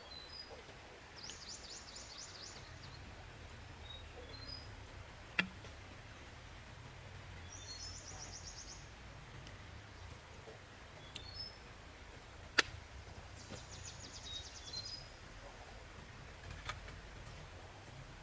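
A small songbird singing a high, rapid trill three times, about six seconds apart, with short chirps in between. Two sharp clicks cut in, one near the middle and a louder one about two thirds through, over a steady low background noise.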